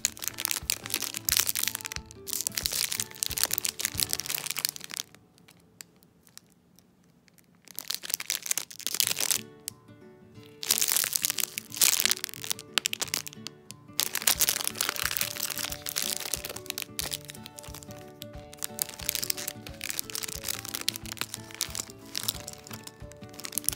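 Clear plastic bags crinkling and crackling as bagged foam squishy toys are handled and turned in the hand, over background music. There is a quiet pause of about two seconds a quarter of the way through.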